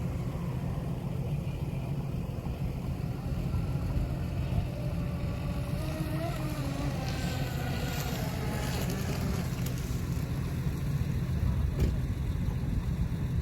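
Radio-controlled speedboat running, a faint whine that rises and falls in pitch, over a steady low rumble.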